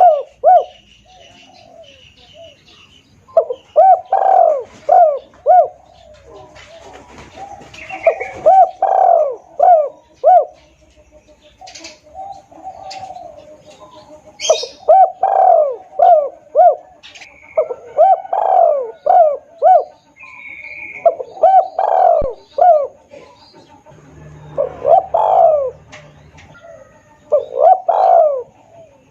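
Spotted dove (tekukur) cooing loudly and clearly, a phrase of several quick coos repeated every two to three seconds, used as a lure call for doves.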